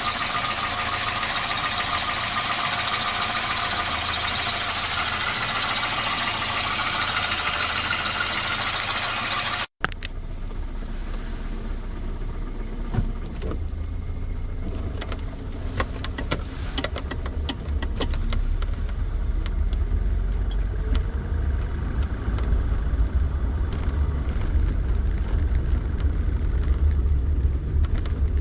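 1988 Volvo 240 GL engine running, with a knocking noise that the owner takes for most likely piston slap. The engine otherwise runs fine. About ten seconds in, the sound cuts to a deeper, rumbling take of the engine, with scattered sharp knocks over it.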